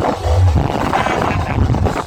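Loud dance music played through a large parade sound system (a horeg rig), dominated by heavy pulsing bass.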